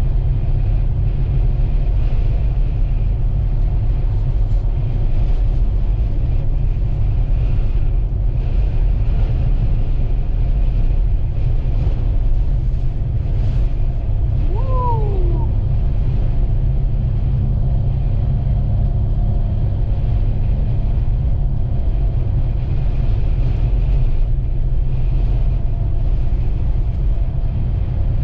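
Steady low rumble of a vehicle driving along a highway. About halfway through there is one short falling tone.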